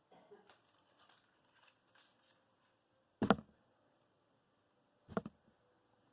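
Faint rustling and small clicks of handling, with two short, loud thumps, about three seconds in and again about five seconds in.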